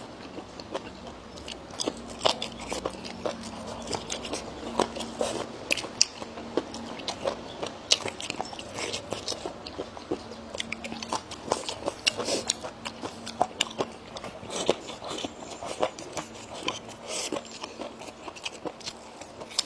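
A person chewing food close to the microphone, with many irregular crunchy bites.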